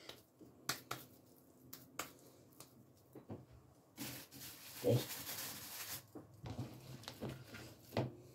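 Hands patting and shaping raw ground meat into a hamburger patty: faint soft slaps and light taps, with a stretch of rustling about four seconds in as the patty is set down.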